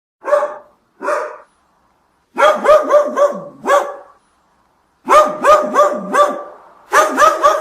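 A small dog barking: two single barks, then quick runs of four to six yapping barks.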